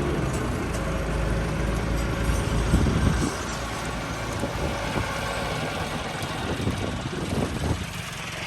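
Diesel tractor engine running, heavier for the first three seconds or so and then quieter, with a few scattered knocks.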